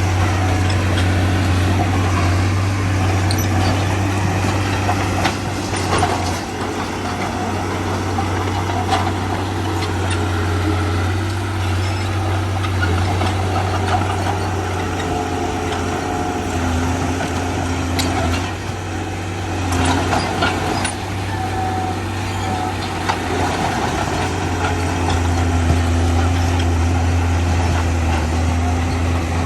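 Heavy diesel engine of construction machinery running steadily under load, with a few brief metallic knocks.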